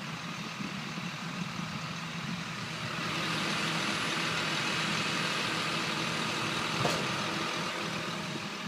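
John Deere combine running in a soybean field, its engine humming steadily under the hiss of the harvesting machinery. The sound grows louder about three seconds in and eases slightly near the end.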